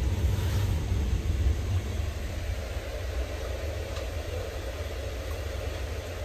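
Steady low rumble of a passenger train running, heard from inside the coach.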